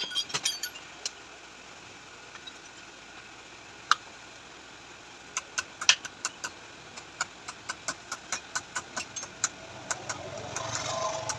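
Light metallic clicks and taps of metal parts and hand tools being handled during shock absorber work, irregular, about two or three a second from about five seconds in. A low hum builds near the end.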